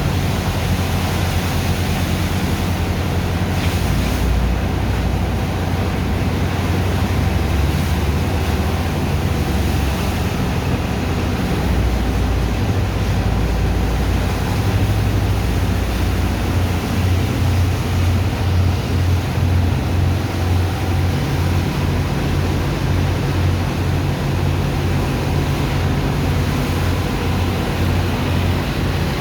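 Engine of a sand dredger's pump running steadily, with water rushing. A low throb pulses regularly through the second half.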